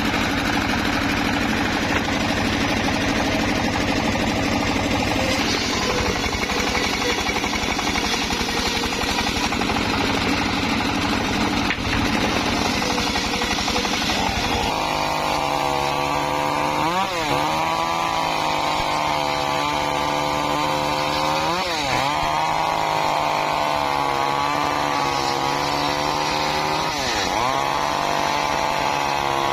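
Engine-driven wood saw running hard throughout: a rough, unpitched noise at first, then from about halfway a steady high engine note that dips sharply and recovers three times.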